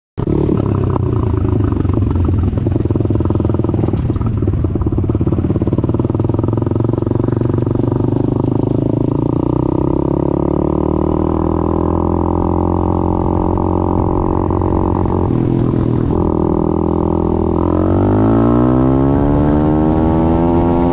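YCF SP3 pit bike's Daytona 190cc four-stroke single running steadily under way, then revving up in a long rising climb in the last few seconds.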